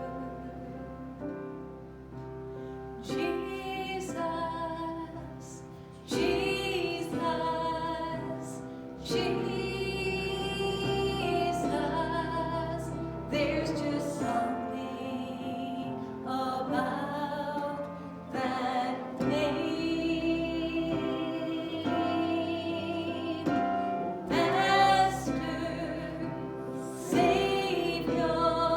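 Slow worship song: a woman singing with vibrato over instrumental accompaniment.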